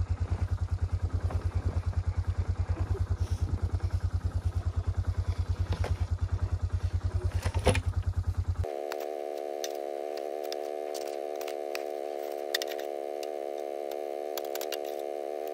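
Quad (ATV) engine running with a steady low pulsing beat and a single knock near the end, then it cuts off abruptly about nine seconds in and a quieter, steady set of held humming tones takes over.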